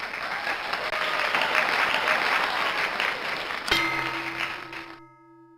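Applause, which breaks off about three and a half seconds in with a click and gives way to a held, fading musical chord.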